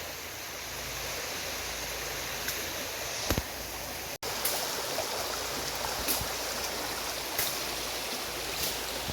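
Shallow, clear creek running steadily over a sandy bed: an even, soft rush of flowing water, with a few light clicks and a brief cut-out of the sound about four seconds in.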